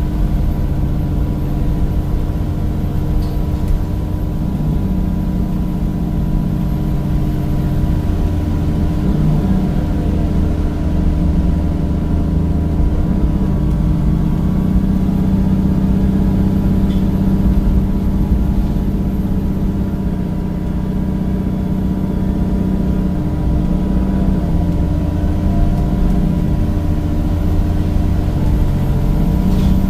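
Temsa Avenue bus's replacement Cummins diesel engine and ZF gearbox running under way, a steady engine note that shifts in pitch a few times, about ten seconds in and again around twenty-five seconds.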